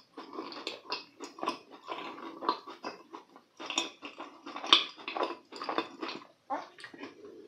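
Close-miked chewing of a mouthful of food with the mouth closed: irregular wet smacks and clicks, with one sharper click about halfway through.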